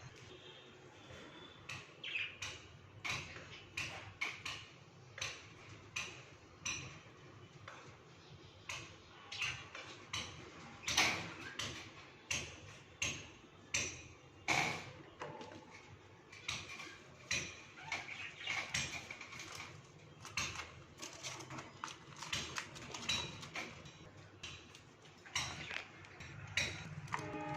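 Caged parrots giving short, sharp chirps and clicks, irregular at about one or two a second, over a low steady hum.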